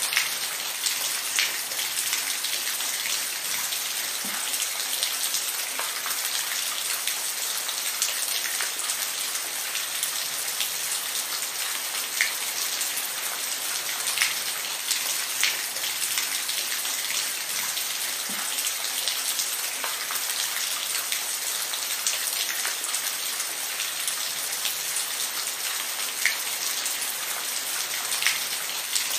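Steady rain falling, a dense hiss with scattered louder individual drops striking a surface every second or two.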